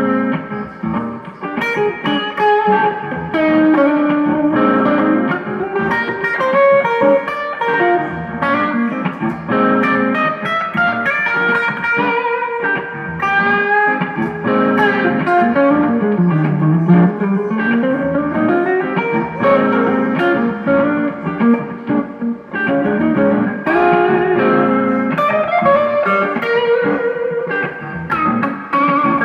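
Guitar playing a bluesy riff that repeats every couple of seconds, with one long slide down in pitch and back up about halfway through.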